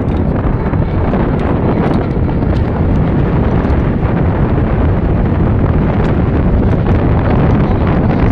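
Wind buffeting the microphone of a hand-held tablet while riding a bicycle: a loud, steady, deep rushing noise.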